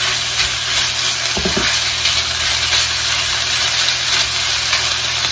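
Chicken strips sizzling in oil in a wok while being stirred with a wooden spoon, a steady frying hiss over a steady low hum.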